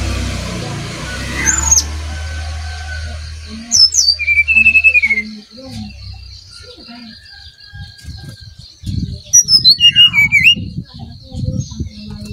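Brown-chested jungle flycatcher singing: three short phrases of quick, sharp whistled notes, the first about a second and a half in, the others around four and ten seconds in. Under it a low hum fades out after about five seconds, a steady high buzz runs on from about four seconds, and low thuds come in the second half.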